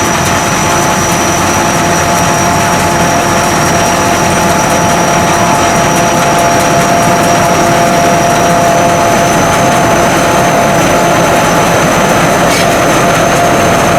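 Sakpattana SS-200 mini combine harvester running steadily at work, its engine and harvesting machinery making a loud, constant mechanical noise with a steady high whine over it.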